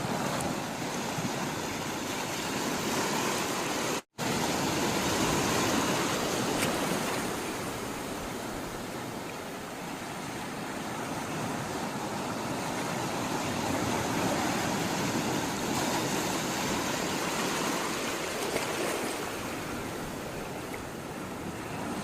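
Sea water rushing steadily, swelling and easing slowly as waves come and go. About four seconds in, the sound cuts out completely for a split second.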